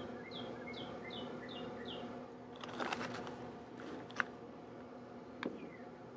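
A bird singing a quick run of repeated short, down-slurred chirps, about two or three a second, over the first two seconds. A few sharp light clicks follow, the loudest about four seconds in, over a faint steady hum.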